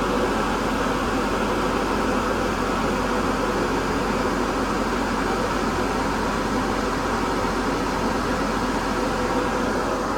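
Heat pump air-conditioning unit of a weatherized electrical enclosure running, its fan blowing a steady rush of air with a faint hum, with the heating circuit on.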